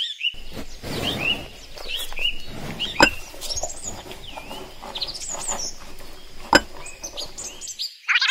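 Birds chirping: many short rising and falling calls over a faint steady background, with two sharp clicks, about three seconds and six and a half seconds in.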